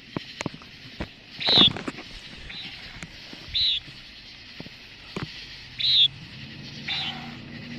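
A bird's short, high, buzzy call repeated about every one to two seconds, with a few light clicks between the calls. A low steady hum of a vehicle comes in near the end.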